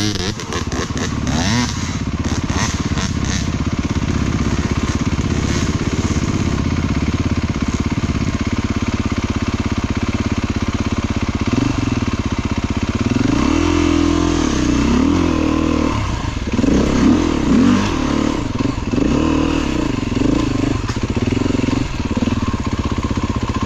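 Single-cylinder dirt bike engine running, holding a steady speed at first, then revving up and down repeatedly through the second half as the throttle is worked. A few sharp clacks in the first few seconds.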